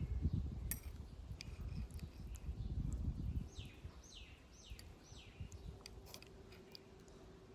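Outdoor ambience: low rumbling noise for the first three seconds or so, with scattered clicks, then a bird calling a quick run of about five falling notes. A faint steady hum follows.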